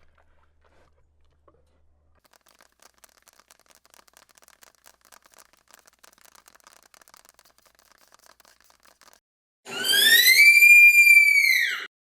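A faint, rapid crackling, then near the end a loud, high-pitched whistling call that rises, holds and falls away over about two seconds.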